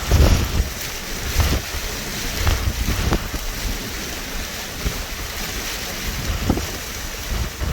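Hurricane-force wind gusting and buffeting the microphone in irregular heavy low thumps, over a steady rushing noise.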